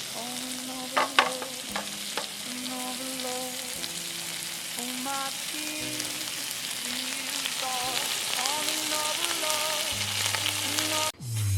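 Breakfast food sizzling in a frying pan on a camping stove, with a few sharp clicks of a utensil against the pan about a second in.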